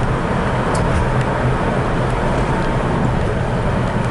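Car driving: steady engine and road noise with a low hum.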